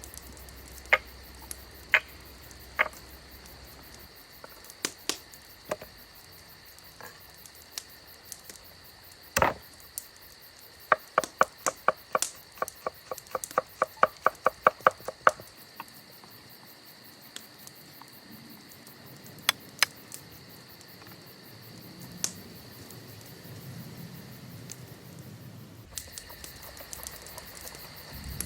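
Steady high chirring of crickets, with sharp knocks and clicks scattered through it. About a third of the way in comes a quick run of taps, about four a second, lasting some four seconds.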